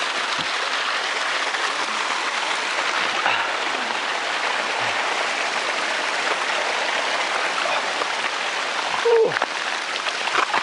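Water of a low-flowing waterfall running and splashing over rocks, a steady rushing. A short vocal sound breaks in about nine seconds in.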